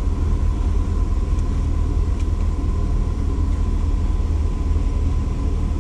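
Steady low background rumble with a faint, steady high tone over it and a couple of faint ticks.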